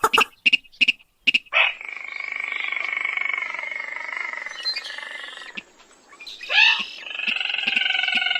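Recorded rail call played as a hunting lure. A quick run of short notes is followed by a long, rattling, purring trill that sags a little in pitch, then a brief sweeping note and a second long trill.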